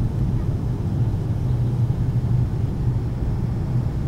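Steady low drone inside the cabin of a Boeing 757-200 airliner: engine and airflow noise in flight, with a strong even hum low in pitch.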